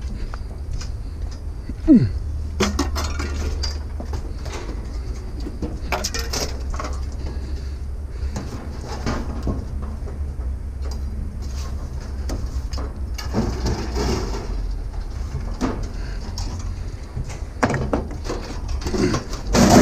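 Hand work on scrap: wire cutters snipping wire, with scattered clicks, snips and clatter of metal pieces over a low steady rumble. A sharp click with a short falling squeak comes about two seconds in.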